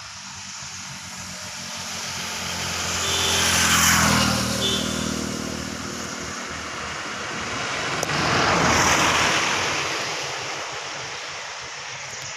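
Eicher 241 tractor's single-cylinder diesel engine running, growing louder and fading away twice, about five seconds apart, with a rushing noise at each peak.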